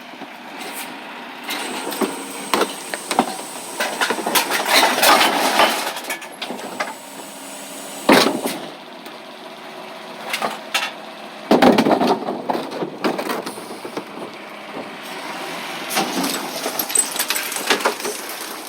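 Recyclables being handled: a run of rattling, clattering and rustling with scattered knocks, and two louder thumps about eight and eleven and a half seconds in.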